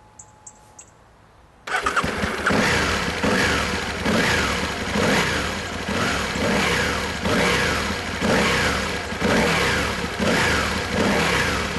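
Aprilia RSV Tuono R Factory's 997cc 60-degree V-twin firing up after a few faint clicks, then revved in quick throttle blips about once a second, each rev rising and dropping back.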